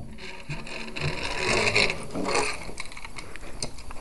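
A toy train engine pushed along a toy railway track, rattling with irregular clicks.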